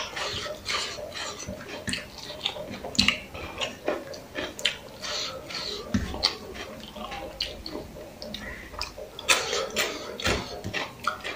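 Close-miked chewing and lip-smacking of a person eating rice biryani by hand, a run of irregular short mouth clicks and smacks, with fingers mixing the rice on a steel plate.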